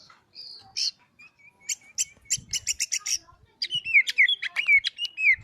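Oriental magpie-robin (kacer) singing: a quick run of sharp, clicking notes, then from about three and a half seconds in a fast string of whistled notes that each slide downward.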